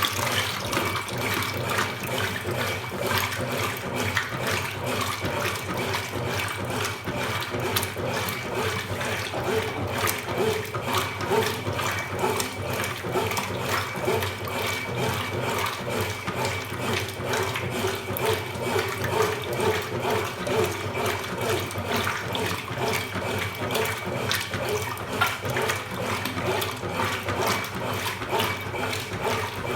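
Consul Supercargo 8 kg washing machine (CWL08C) with water running and splashing in its tub, a steady rush with many irregular splashes and a thin steady tone.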